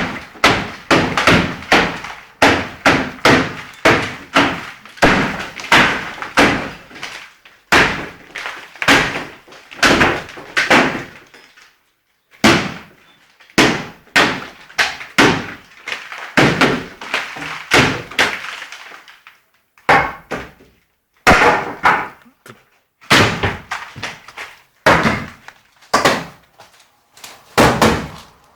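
Rapid series of heavy blows, about two a second, each with a short ring, as in renovation demolition work. Two brief pauses, about 12 and 20 seconds in.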